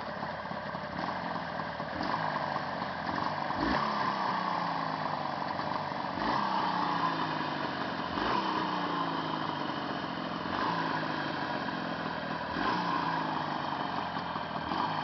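Jawa 638's two-stroke twin-cylinder engine running warm, its speed rising and then falling away several times.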